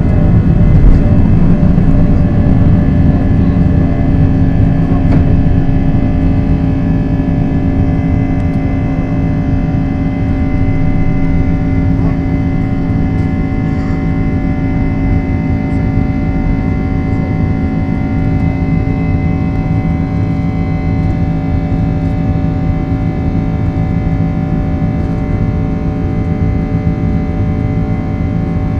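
An airliner's jet engines running at take-off and climb power, heard from inside the passenger cabin: a steady roar with a few steady tones, slowly easing off over the first ten seconds or so.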